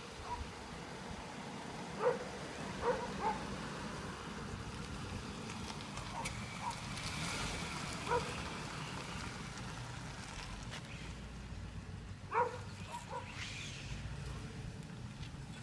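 Toyota RAV4's four-cylinder engine running at low speed as the SUV pulls away from the curb and drives off. A handful of short, sharp calls stand out over it, the loudest about two and twelve seconds in.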